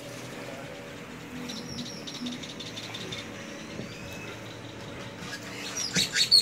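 Birds calling in palm trees: a quick run of high chirps, then a loud burst of sharp calls near the end. A faint steady low hum runs underneath.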